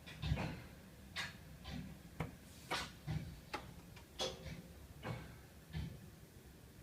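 Radiator heating pipes ticking and knocking at uneven intervals, about ten sharp clicks and taps in a row. This is the noise that has kept the household awake at night.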